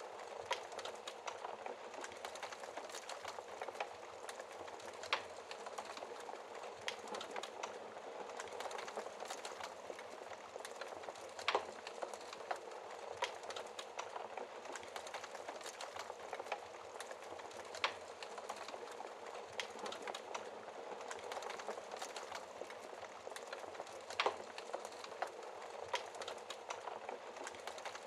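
Wood fire burning in a fireplace: a steady hiss of flames with frequent small crackles of burning wood and three louder sharp pops spread through.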